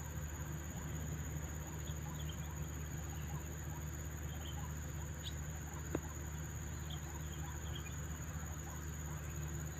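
A flock of small birds feeding on insects, giving short high chirps scattered throughout, over a steady low hum. A single sharp click about six seconds in.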